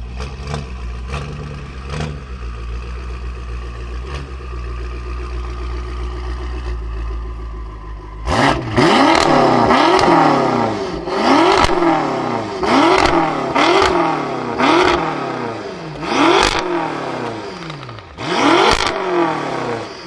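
Straight-piped BMW M5 F10 with a tuned twin-turbo 4.4-litre V8, idling steadily. About eight seconds in, it is blipped in a series of about seven sharp revs, each rising quickly and dropping back to idle.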